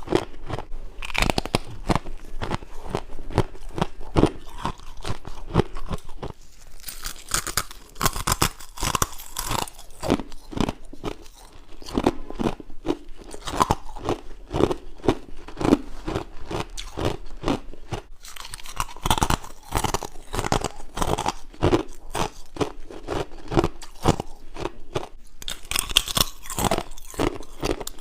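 A person biting and chewing frost-like ice, with a steady run of rapid crunches and crisper, sharper stretches about a quarter of the way in and near the end.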